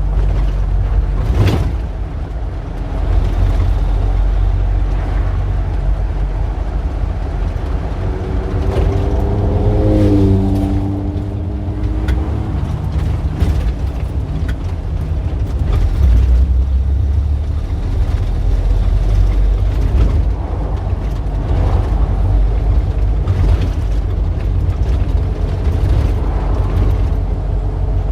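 Street traffic: the steady low rumble of cars passing, with scattered clicks and knocks. About ten seconds in, one vehicle's engine hum stands out briefly, its pitch dipping slightly.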